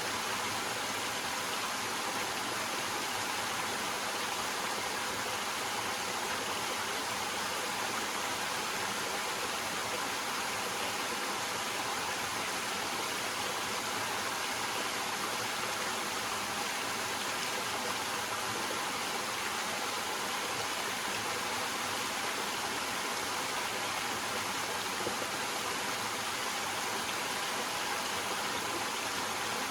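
Small waterfall splashing over rocks: a steady, even rush of water with no breaks.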